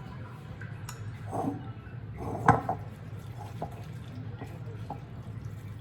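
Kitchen handling sounds: a few light clicks and knocks, the loudest about two and a half seconds in, over a steady low hum.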